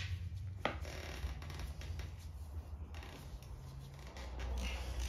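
Small metallic clicks and rattles of hand tools and bolts being worked loose on a Holden grey motor during strip-down, with one sharper click about half a second in, over a low steady hum.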